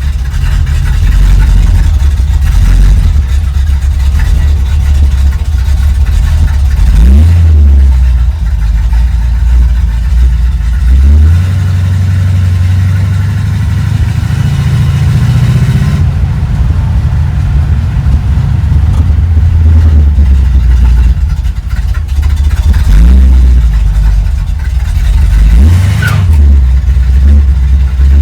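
Chevrolet 350 small-block V8 engine running loudly, its revs rising and falling, with a couple of quick rises in pitch, around 7 seconds in and near the end.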